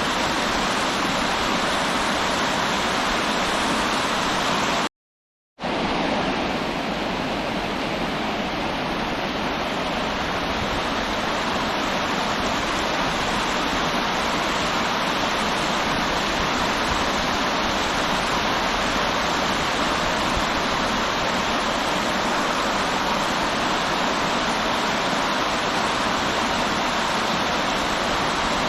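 River water rushing steadily, a continuous even wash of noise. The sound drops out completely for under a second about five seconds in, then picks up again.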